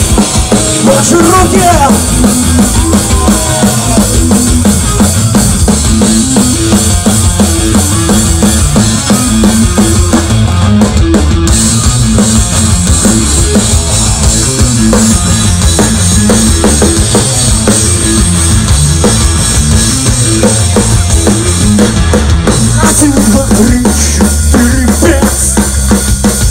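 Loud rock music: the band's instrumental intro to the song, with a driving drum kit and heavy bass, before the vocals come in.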